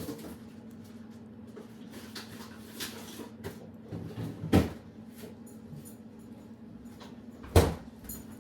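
Cupboard doors knocking shut while things are put away: a few light clicks, then two sharp knocks, one about halfway through and one near the end.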